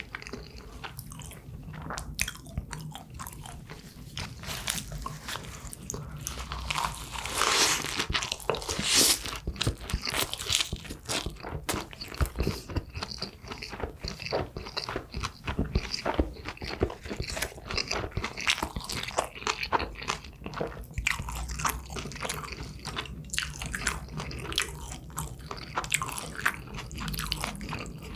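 A person chewing and biting food, with crunchy bites and wet mouth clicks, picked up close to the microphone. There is a louder, busier bout about seven to nine seconds in.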